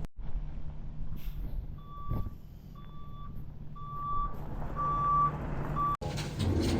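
A heavy diesel vehicle's back-up alarm beeping about once a second as it reverses, growing louder, over the steady low running of its engine.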